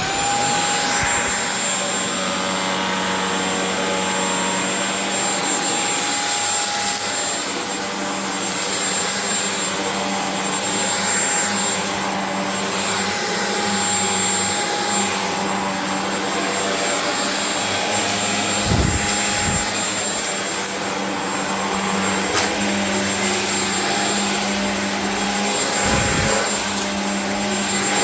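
Vacuum cleaner running steadily over rugs, its motor humming with a thin high whine on top. It has just been switched on and is up to speed at once. Two brief changes in the low end, at about 19 and 26 seconds in, break the otherwise even sound.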